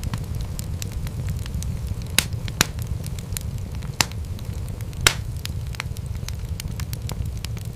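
Wood fire crackling: many small clicks over the steady low sound of the flames, with four louder pops, the loudest about five seconds in.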